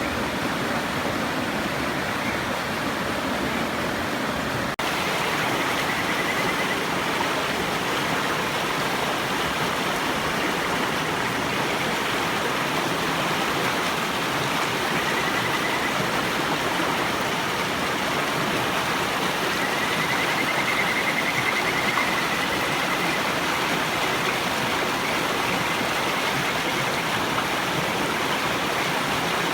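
River water rushing steadily, with Kajika frogs (Buergeria buergeri) giving faint high trilling calls a few times over it. The longest call comes about two-thirds of the way in.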